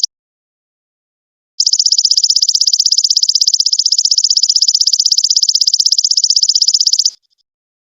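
Golden locust (belalang emas) insect call: a loud, high-pitched, rapidly pulsing buzzing trill. It starts after a second and a half of silence, holds steady for about five and a half seconds, then stops abruptly.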